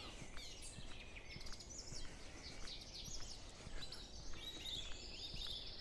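Small songbirds chirping and singing, many short high calls overlapping, over faint outdoor background noise.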